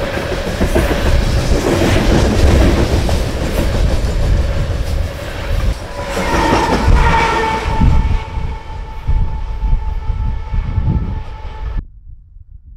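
A BNSF coal train running past close by: heavy rumble with wheels clicking over the rail joints. From about halfway a steady high ring of several tones at once sounds over it, and the sound cuts off abruptly about a second before the end.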